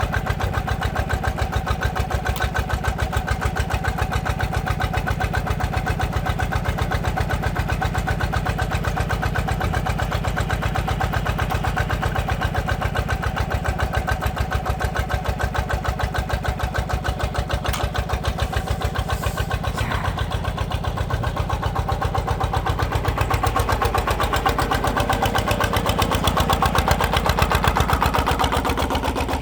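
Power tiller's single-cylinder diesel engine chugging steadily as it drives the hydraulic log splitter, growing louder and straining near the end as the splitter works.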